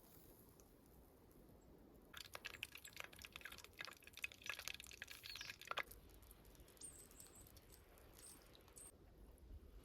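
Quiet, with a few seconds of faint, irregular clicking and crackling starting about two seconds in, then a few faint high chirps near the end.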